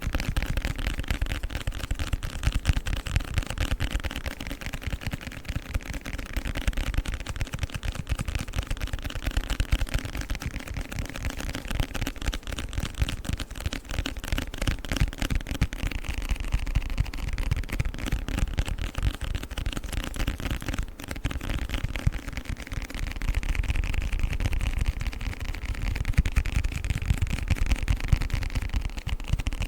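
Fast ASMR sounds made on a book: a dense, continuous run of quick taps and clicks.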